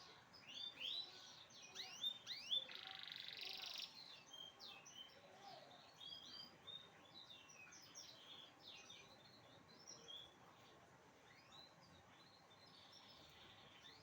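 Songbirds from a kept collection chirping and twittering in quick, high, sweeping notes, busiest in the first few seconds, with a harsh rattling burst about three seconds in.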